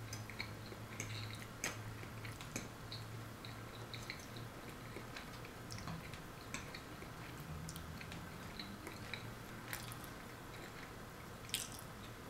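Close-up chewing with small wet mouth clicks, and now and then a metal fork clicking against a ceramic plate, the sharpest click near the end. A low steady hum runs underneath.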